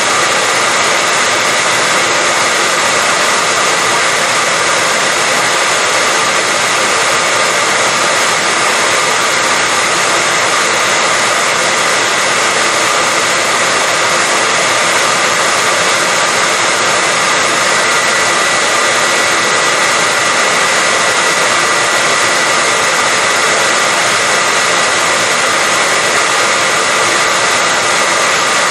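Hair dryer running steadily: an even, continuous rush of air with a faint high whine held at one pitch.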